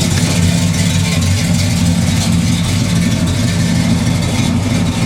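The 396 cubic-inch big-block V8 of a 1966 Chevrolet Chevelle SS idling steadily, a low, even running sound.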